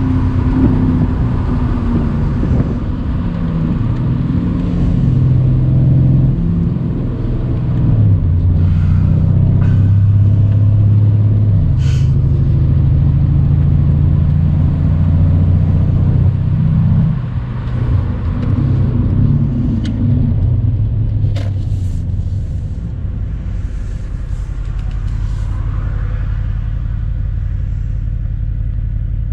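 Mercedes-AMG C63's twin-turbo 4.0-litre V8 driven briskly with the top down, its note rising and falling as it pulls through the gears, with a couple of brief sharp cracks. It settles to a steadier, lower cruise for the last few seconds.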